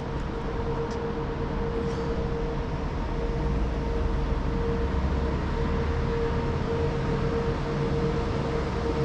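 Street-cleaning lorry's engine running, with a steady whine and a low rumble that grows louder about three seconds in.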